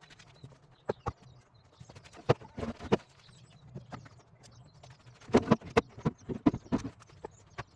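Pieces of firewood knocking and clattering together as wood is gathered and stacked: single sharp clacks early, then two quick clusters of clacks in the middle and near the end.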